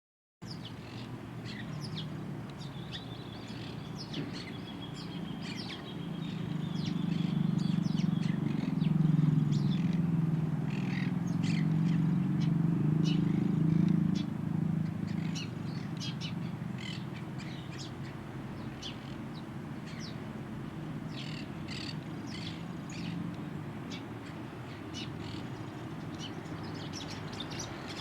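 Songbirds chirping with many short calls, one holding a level whistle in the first few seconds. Under them a low hum with several pitches swells up from about six seconds in, is loudest through the middle, then fades back down.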